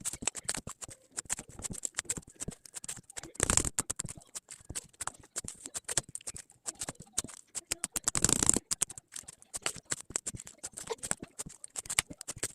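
Slime being squished and poked by hand: dense, crackly clicking, with two louder, longer squelches about three and a half and eight seconds in.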